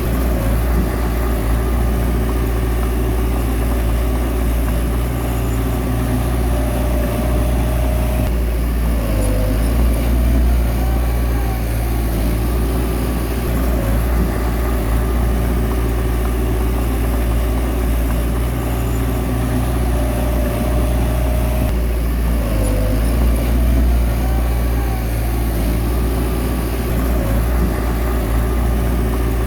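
Bulldozer's diesel engine running steadily. Its note changes in a cycle that comes twice, about 14 seconds apart: each time a held tone is followed by a shift in the engine sound.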